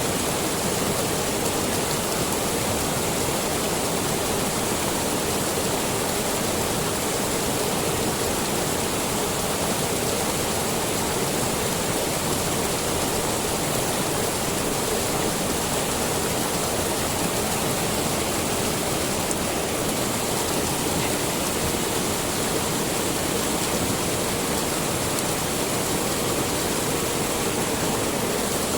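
Steady rush of a river waterfall: water pouring and splashing with no change in level.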